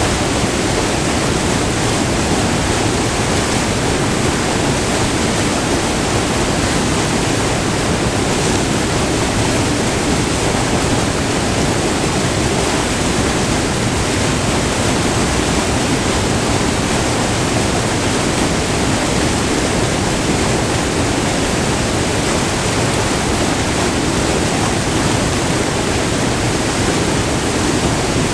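Whitewater of a short multi-tiered river waterfall rushing and splashing over rock close by, a loud steady roar of water.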